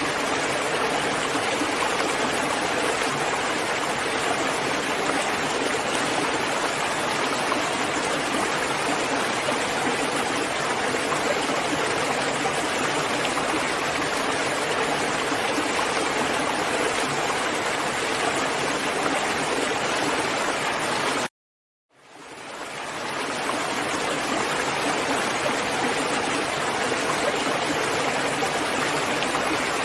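Steady rain falling as a dense, even hiss. About two-thirds of the way through it cuts out to silence for under a second, then fades back in over a couple of seconds, like a splice between loops.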